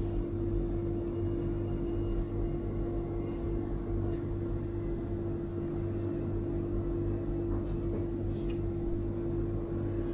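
Steady machine hum with one constant, unchanging tone over a low drone, and a few faint light ticks.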